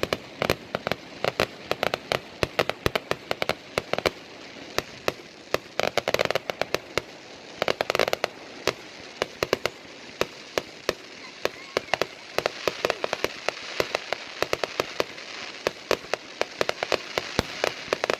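Fireworks going off: a fast, irregular run of sharp cracks and pops, several a second and often overlapping. In the last third a denser crackling hiss builds under the bangs.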